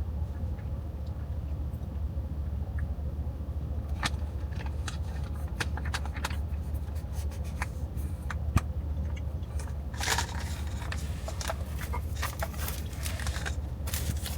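Steady low hum inside a car cabin, with scattered small clicks and taps of handling, and a few seconds of crinkling rustle starting about ten seconds in.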